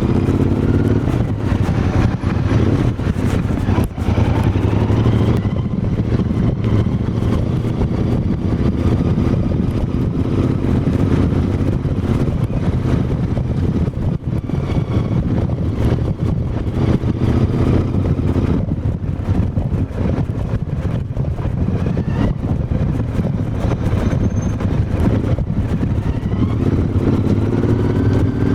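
Royal Enfield Interceptor 650's 648 cc parallel-twin engine and exhaust running steadily, its note rising and falling a few times as the revs change.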